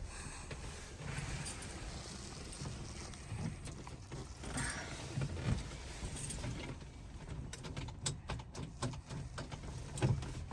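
Irregular clicks and light metallic rattles of an antique car's ignition key being worked, over a low rumble. The clicks come thickest in the second half.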